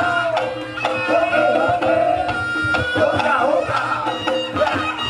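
Reog Ponorogo ensemble music: kendang hand drums beating a busy, driving rhythm under a wavering slompret shawm melody, with steady gong-chime tones held beneath.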